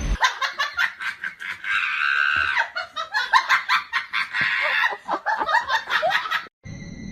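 High-pitched laughter in quick, rapid bursts, cutting off suddenly near the end.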